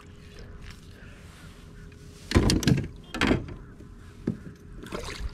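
A few sudden knocks and scrapes of gear being handled against a kayak hull, the loudest about two and a half seconds in.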